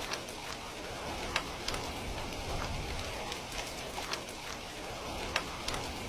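Steady rain hissing with a low rumble, and a wood fire crackling over it: scattered sharp pops, two of them louder than the rest.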